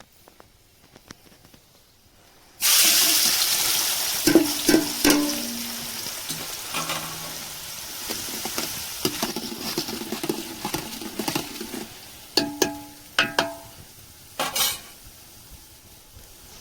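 Food going into hot oil in a cooking pan about two and a half seconds in sets off a loud, sudden sizzle that slowly dies down. A metal spoon knocks and scrapes against the pan several times while the food is stirred.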